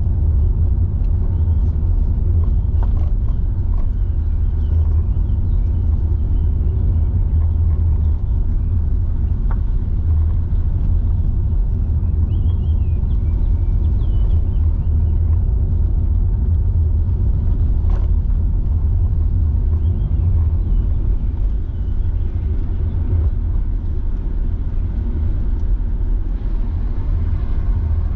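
Car driving at steady speed: a constant low rumble of engine and tyres on the road, with a few faint high chirps and light ticks over it.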